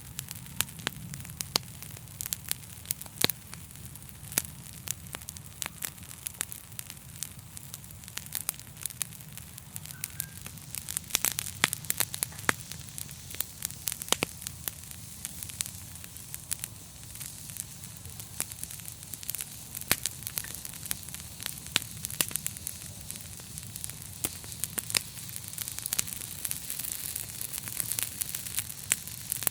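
Fire crackling: frequent, irregular sharp pops and snaps over a steady hiss and a low rumble, the hiss growing a little louder near the end.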